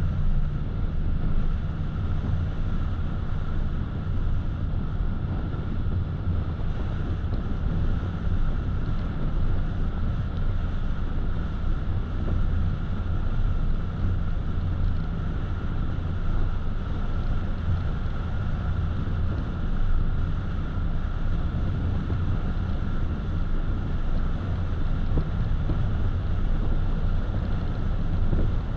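Steady road noise of a car driving: a constant low rumble of tyres and engine with a faint steady whine, unchanged throughout.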